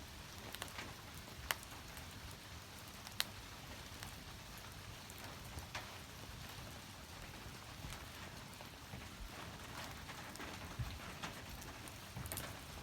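Wood fire crackling quietly, with scattered sharp pops over a soft hiss.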